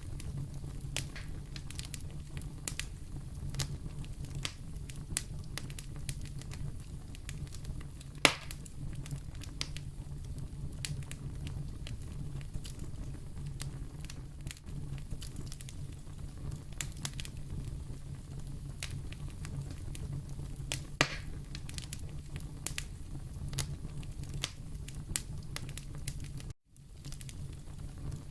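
Wood fire burning in a fireplace: a steady low rumble of flames under constant small crackles, with two louder pops, one about a third of the way in and one about three-quarters through. The sound cuts out for a moment near the end.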